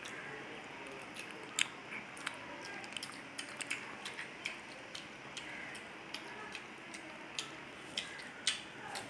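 A person chewing and eating food: irregular small clicks and mouth sounds scattered throughout, over a faint steady hiss.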